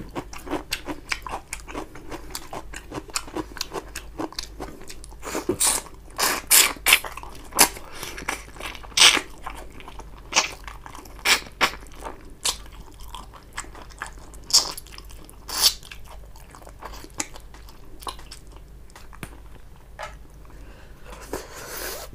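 Close-miked chewing and wet mouth smacks of someone eating the last of a rice and fish curry by hand. A run of louder, sharper smacks comes in the middle.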